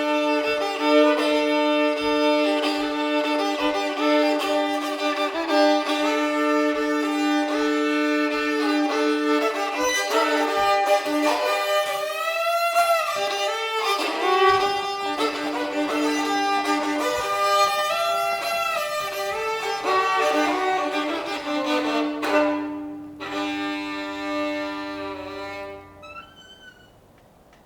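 Old-time Appalachian fiddle playing a tune over a held drone string, with a slide in pitch about halfway through. A soft low tapping keeps time about twice a second in the first half. The playing tapers off and fades out near the end.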